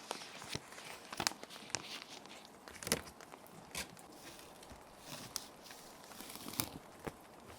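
Plastic sheet protectors crinkling and rustling as paper sheets are slid into them, in irregular soft crackles and swishes over a steady hiss of background rain.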